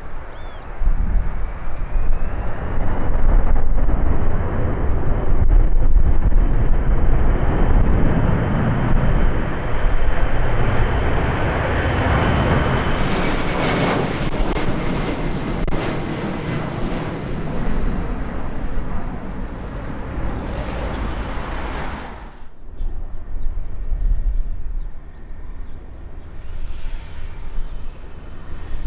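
Boeing C-17 Globemaster III's four Pratt & Whitney F117 turbofans running at high power as the jet passes, a loud jet noise with a high whine. The noise drops off sharply about three-quarters of the way through and is quieter afterwards.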